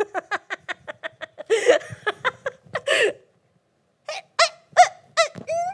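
A woman laughing: a fast, even run of short 'ha' pulses with breathy gasps between, then after a brief pause a few louder, higher whooping laughs.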